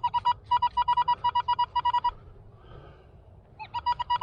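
Metal detector beeping on a buried target, which turns out to be a nickel: quick runs of short beeps at one steady pitch, a pause, then another run near the end.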